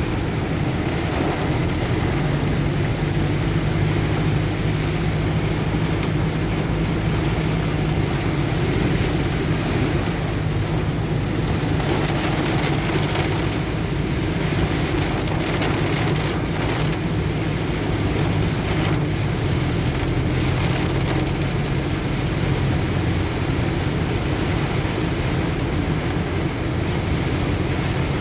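A truck engine running steadily at low speed as the truck pushes through deep floodwater, with heavy rain falling on it and water sloshing around the wheels.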